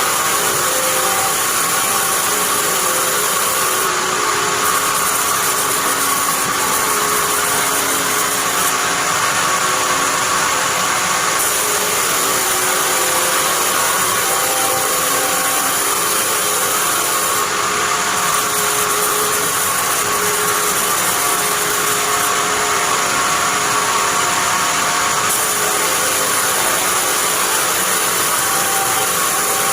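Sawmill band saw running steadily with a constant high hum, sawing pine.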